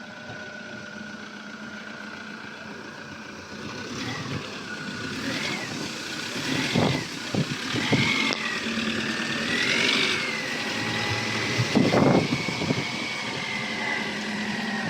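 A motor vehicle running, with a whine that rises and falls in pitch with the revs. It grows louder about four seconds in, and a few knocks come through about seven and twelve seconds in.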